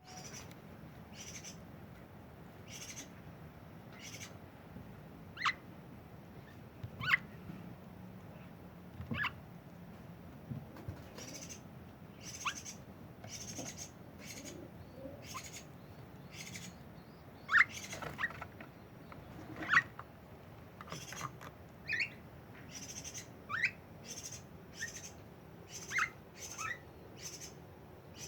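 Javan myna giving short, sharp single calls at irregular intervals, a few of them much louder than the rest, with frequent faint high clicks in between.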